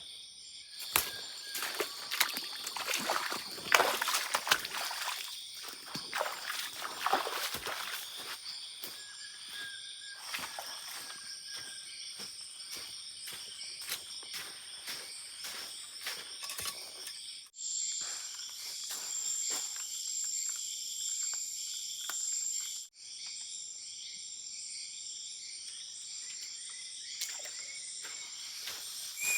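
Insects droning in a steady high-pitched chorus. For roughly the first half there are crackling rustles and knocks close by. The sound breaks off briefly twice, near the middle and again a few seconds later.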